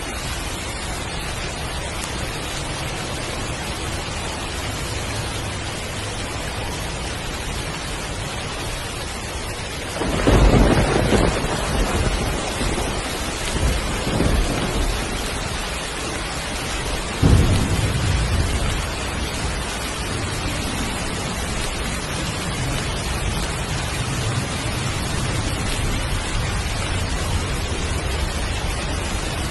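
Heavy rain falling steadily. About a third of the way in, a roll of thunder breaks in suddenly, with two more loud claps a few seconds apart, then rumbles away under the rain.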